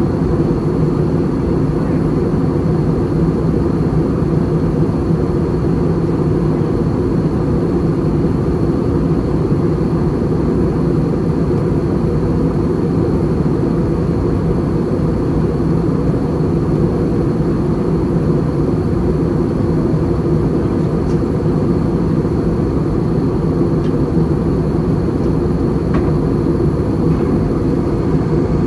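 Steady cabin noise inside an Airbus A320 airliner in flight: a constant low rumble of engines and airflow with a faint, high, steady whine over it.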